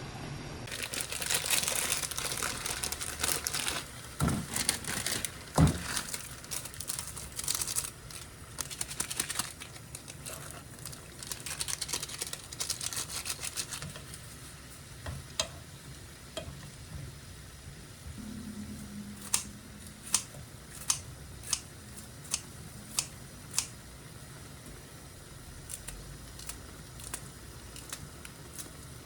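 Kitchen sounds with no speech: a dense crackling, crinkling noise for about the first half, with a couple of louder knocks. Then, from about two-thirds of the way in, a run of six sharp light clicks.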